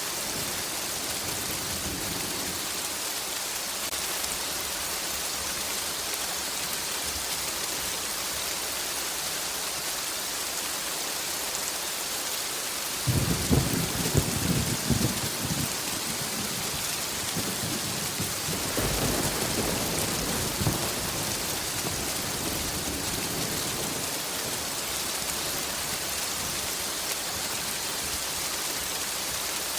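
Steady rain hissing, with a sudden thunderclap a little under halfway through that rumbles for a couple of seconds, then a second, softer roll of thunder a few seconds later.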